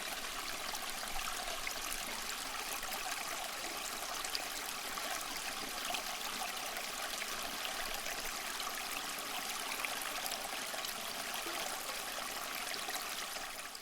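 Water trickling and splashing steadily down a small tabletop cement waterfall fountain.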